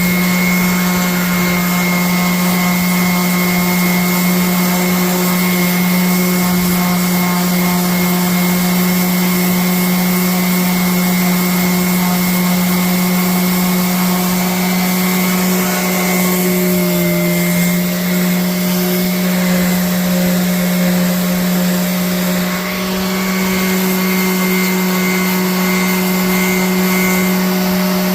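Bauer random orbital sander running steadily with a shop vac drawing dust from it, a loud, even motor whine. The pitch sags briefly about two-thirds of the way through and picks up again a few seconds later, as the sander is loaded against the wood.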